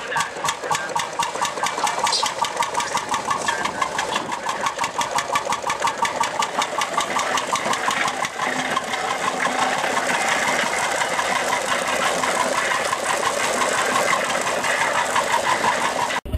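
Single-cylinder hot-bulb semi-diesel engine of a 1921 Lanz Bulldog 12hp tractor running with a steady, rapid, even beat.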